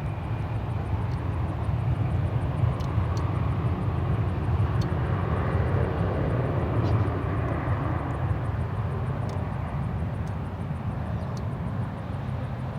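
Airliner's engines heard as it passes on the runway, a broad rumble that swells to a peak through the middle and slowly eases off.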